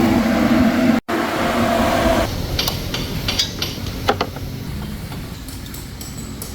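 Kawasaki Z800's inline-four engine running steadily for about two seconds, then a few light metallic clinks of tools or parts being handled.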